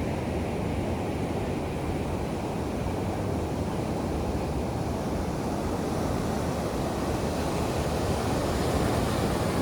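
Ocean surf washing onto the beach: a steady rushing noise that swells a little near the end.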